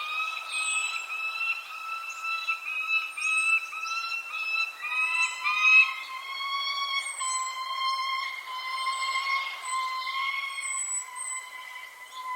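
Birds calling: a continuous run of strident, pitched calls that drops to a lower, steadier pitch about five seconds in, with short, high, falling chirps scattered over them.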